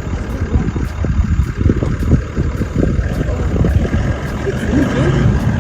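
Safari vehicle engine running with a heavy low rumble and irregular knocks and bumps.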